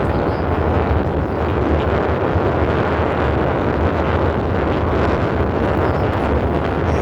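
Wind rushing over the microphone of a rider on a moving e-bike: a steady, loud rumbling noise with no breaks.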